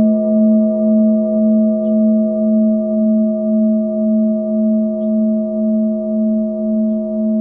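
A singing bowl rings on after being struck, its layered tones holding steady with a slow, regular wobble in loudness. Small birds chirp faintly a few times in the background.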